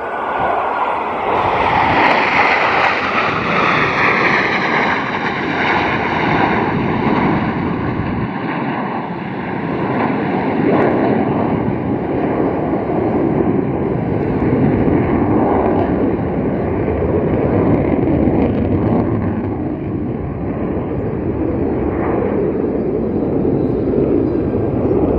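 Jet noise from the Blue Angels' F/A-18 Super Hornets flying past. The engine whine falls in pitch over the first few seconds, then the jet noise holds steady.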